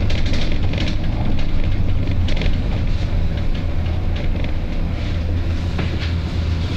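Volvo B9TL double-decker bus's diesel engine idling with a steady low hum, with repeated short hisses from the bus's air system.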